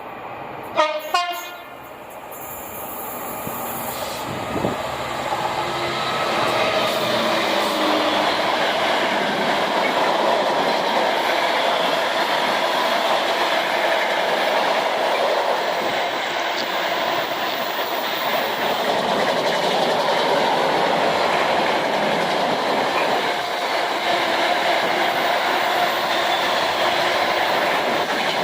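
Freight car train passing through the station. About a second in there are two short, loud horn blasts. Then the passing train builds to a steady, loud rumble of wagons with wheels clicking over the rail joints.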